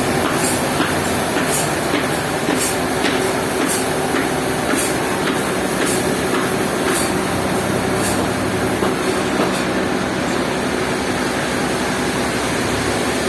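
Sawmill machinery running steadily: a continuous mechanical drone with a constant hum, and a regular faint high ticking that stops about nine seconds in.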